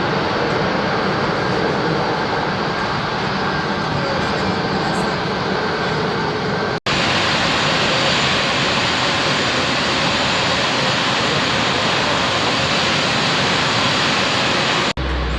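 Jet airliner engines running as aircraft taxi: a steady, loud rush of engine noise. It breaks off sharply about seven seconds in, and then the same kind of jet noise carries on in the next clip.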